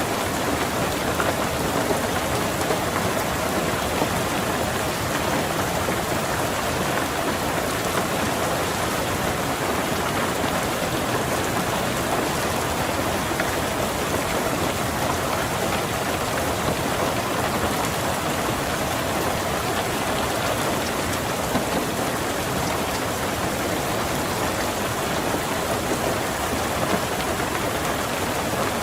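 Steady rain falling on a car's roof and windows, heard from inside the car, with occasional slightly louder drop hits.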